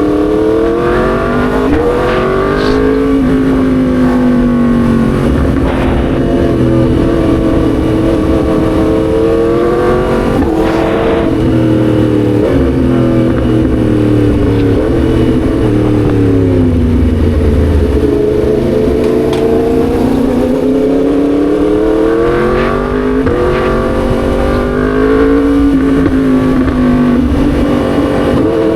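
Yamaha MT-10 SP's crossplane inline-four engine under way, its revs climbing and dropping again and again as the bike accelerates, shifts and slows.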